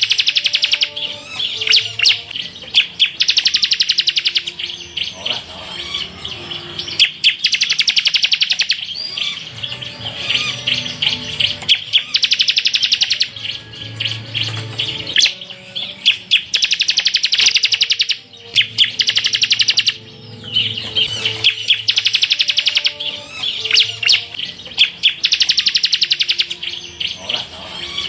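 Ciblek (bar-winged prinia) singing a full 'tembakan' song: rapid, high-pitched machine-gun trills about a second long, repeated every couple of seconds with sharp chirps between.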